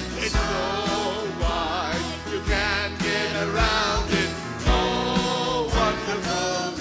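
Gospel worship song sung by voices over a steady beat of about two drum thumps a second.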